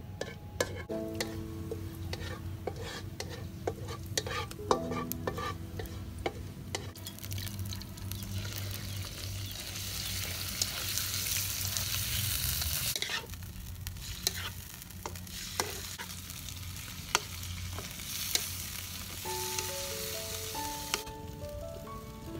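Chicken hearts and garlic sizzling in hot oil in a wok while a spatula stirs them, scraping and clicking against the metal. The sizzle is loudest in the middle stretch and again later on. Soft plucked background music plays at the start and near the end.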